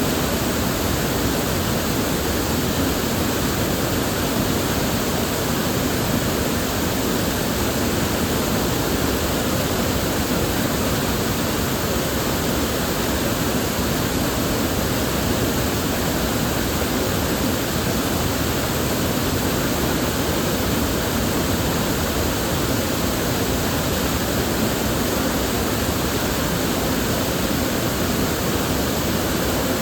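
River water flowing steadily, a continuous even rushing with no breaks or separate splashes.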